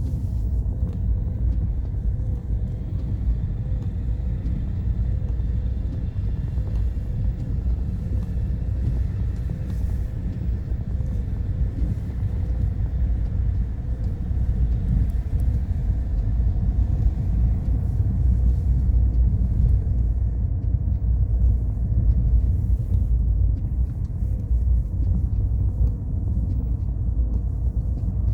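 Car driving on a mountain road: a steady low rumble of engine and tyres, growing a little louder past the middle.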